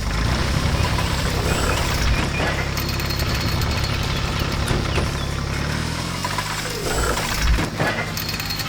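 Heavy construction-machine engine sound effect, running with a steady low rumble; its pitch drops about six seconds in.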